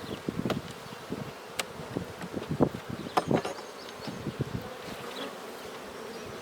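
Honeybees buzzing in a steady hum around an opened hive, with a few sharp clicks and knocks from the wooden hive frames being handled.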